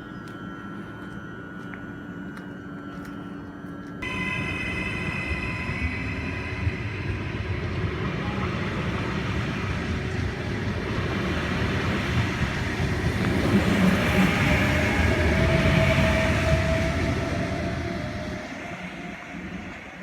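Train moving through the railway station: rumble and wheel noise start abruptly about four seconds in, build to a peak about three-quarters through with a high ringing whine, then die away near the end.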